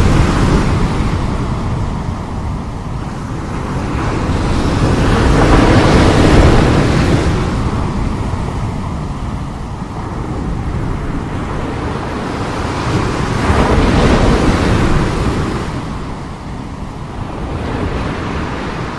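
Strong sea waves crashing and surging, the noise swelling and fading about three times, with wind buffeting the microphone.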